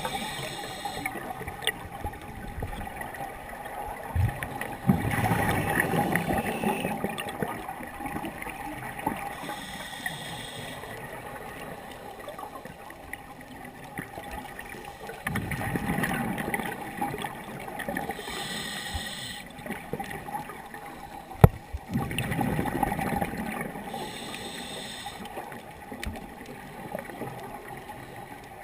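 Scuba diver breathing through a regulator underwater: a short hissing inhalation every eight or nine seconds, each followed a few seconds later by a rush of bubbling exhaled air. A faint steady hum runs underneath, and there is a sharp click about two-thirds of the way through.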